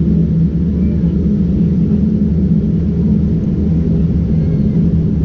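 Steady low rumble inside the cabin of a Boeing 787-9 Dreamliner during takeoff: the jet engines at takeoff thrust and the air rushing past the fuselage.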